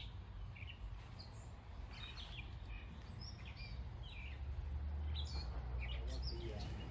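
Small birds chirping now and then in short, high calls over a low steady rumble that grows louder about four and a half seconds in.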